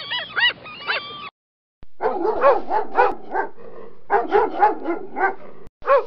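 Humboldt penguins calling with honking brays for about the first second. After a short gap, a dog whimpers and yips in a quick series of short, high whines.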